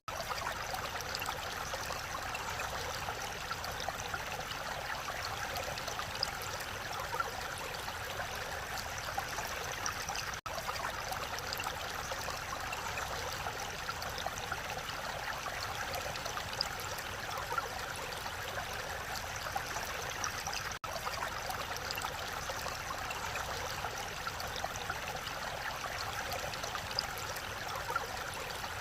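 Mountain stream running steadily over rocks, a continuous rushing and gurgling of water.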